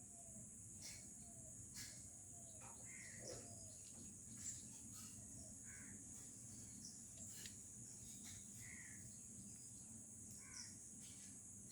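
Faint rural morning ambience: a steady high-pitched insect drone, like crickets, with scattered short bird calls.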